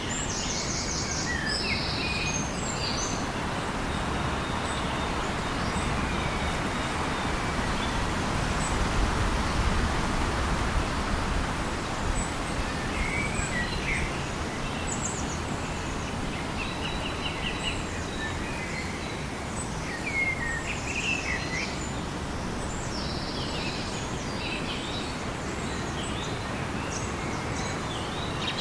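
Tropical forest ambience: a steady rushing hiss with many birds chirping and calling, short high calls and trills scattered throughout. The hiss swells a little about a third of the way in.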